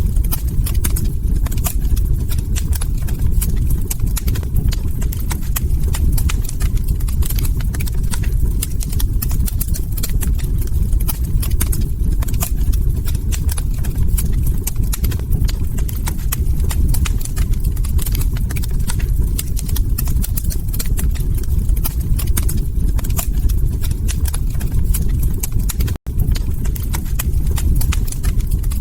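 Log fire crackling: a dense run of small pops and snaps over a steady low rumble of burning wood. Near the end the sound cuts out for an instant, then resumes.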